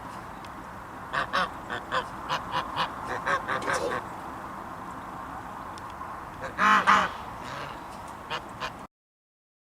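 Geese honking: a quick run of short honks, then one louder, longer honk, over a steady background hiss; the audio cuts to silence just before the end.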